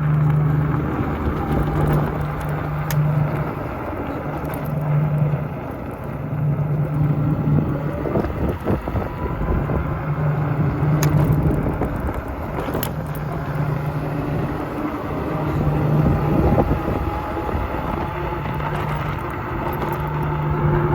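Wind rushing over the microphone and tyre noise from a bicycle being ridden along a path, with a low hum that swells and fades roughly every two seconds.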